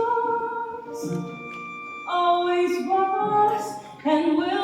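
Female voices singing held notes in harmony over musical accompaniment, in a live stage musical. The chord changes about once a second.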